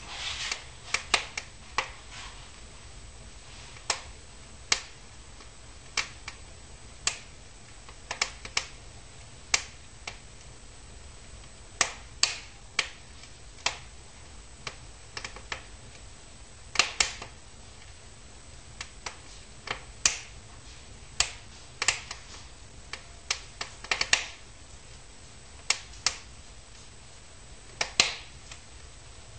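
Firewood burning in a fireplace, crackling with irregular sharp pops, some coming in quick clusters, over a faint steady background noise.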